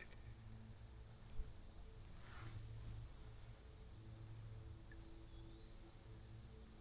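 Faint, steady, high-pitched chorus of insects, with a single small click about a second and a half in.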